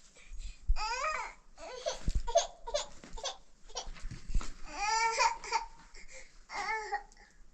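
A young child's high-pitched voice babbling and laughing in short, wordless utterances, several in a row.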